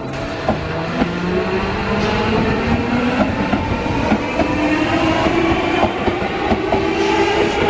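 Seibu 40000 series electric train pulling away: the traction motors' whine rises steadily in pitch as it accelerates, over the rumble of the cars, with wheels clicking over rail joints.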